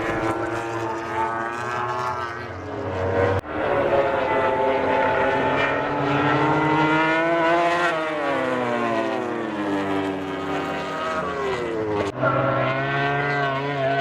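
MotoGP race bike engines at high revs, rising and then falling in pitch as the bikes accelerate, brake and pass. The sound breaks off abruptly twice, about a third of the way in and near the end.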